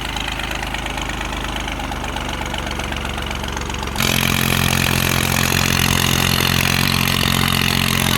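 New Holland 3630 tractor's diesel engine idling steadily. About halfway through the sound jumps abruptly louder and brighter, with the engine still running evenly.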